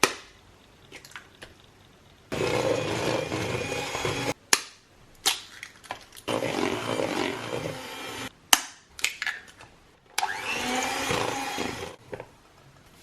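Small electric kitchen appliance motor running in three short bursts of about two seconds each, switched on and off abruptly, with sharp knocks and clicks between the bursts.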